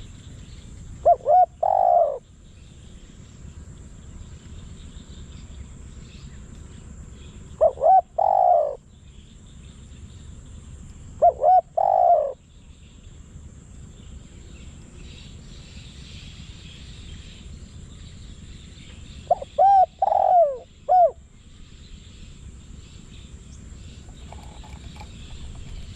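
Spotted dove cooing four times, each call a couple of quick short notes and a longer one, with quiet gaps of several seconds between calls.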